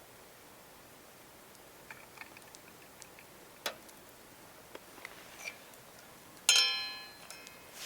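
Sparse light clicks and knocks of things being handled. About six and a half seconds in comes one sharp clink that rings for about a second, like a hard object such as metal camp cookware being struck or set down.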